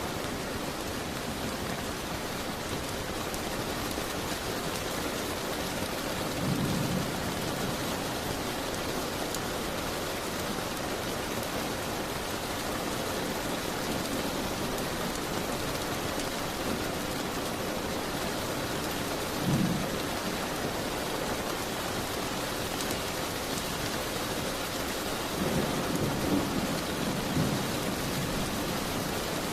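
Steady rain pattering on a window glass. Brief low rumbles rise above it three times: about a quarter of the way in, about two-thirds of the way in, and in a short cluster near the end.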